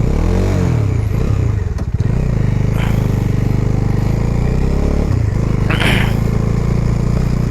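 Motorcycle engine idling and being revved, its pitch rising and falling near the start and rising again about five seconds in, with a short burst of noise just before six seconds. The bike is running again after failing to start, which the rider puts down to a battery drained by leaving the key on.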